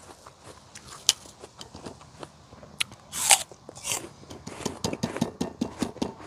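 Close-miked chewing of crisp, freshly picked Granny Smith apple: scattered crackly crunches, a louder crunch a little past three seconds in, and a quick run of crunches near the end.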